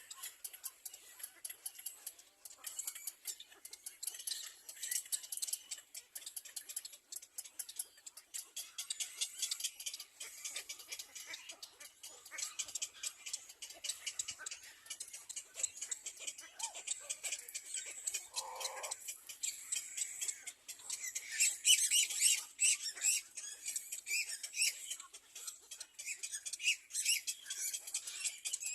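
Baby birds chirping rapidly and continuously in high, thin peeps, with a louder bout of calls about three-quarters of the way through.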